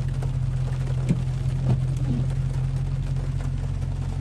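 Car engine running in first gear with a steady low drone that holds its pitch, with a few light clicks.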